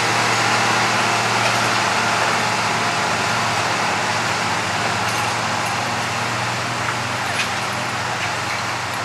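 Antique farm tractor engine running hard under load during a tractor pull, a steady, loud engine note that slowly fades as the tractor moves away down the track.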